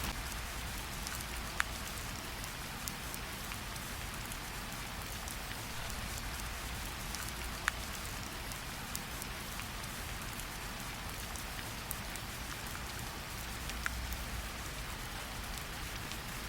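Gentle rain falling on tree leaves: a steady even patter with scattered single drops ticking out more sharply, a few of them louder.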